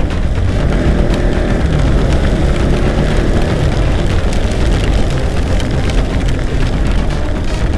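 Motorcycle being ridden: heavy wind rush on the rider's camera microphone over the engine running underneath.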